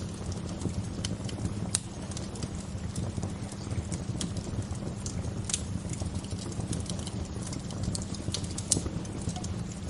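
Bonfire crackling: irregular sharp pops and snaps over a steady low rumble, with a louder snap about two seconds in and another near the end.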